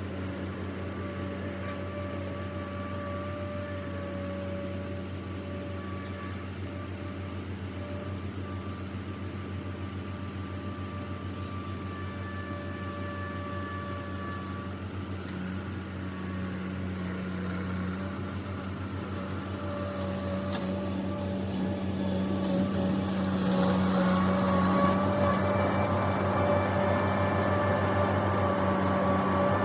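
Diesel engine of farm machinery running steadily with a low hum and a faint whine above it, growing louder about three-quarters of the way through.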